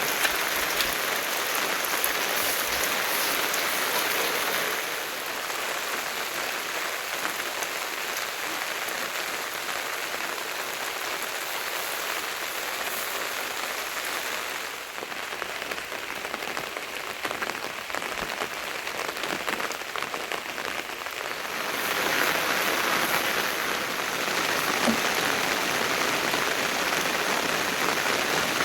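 Steady rain falling and hitting surfaces, an even hiss that eases a few seconds in, eases further around halfway, and grows heavier again about three quarters of the way through.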